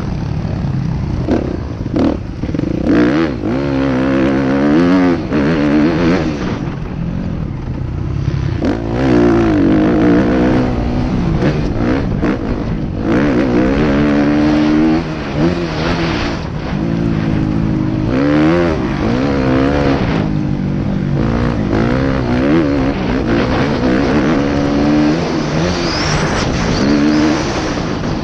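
Motocross motorcycle engine revving hard and easing off again and again, its pitch climbing and dropping every second or two as it is ridden around the track, with rough noise and knocks over it.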